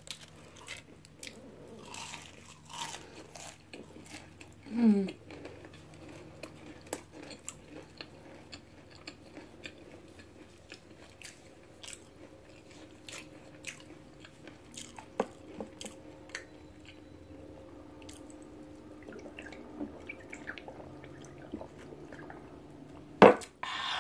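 Close-miked chewing and crunching of fried onion rings, with many small mouth clicks. A single loud sharp sound comes about a second before the end.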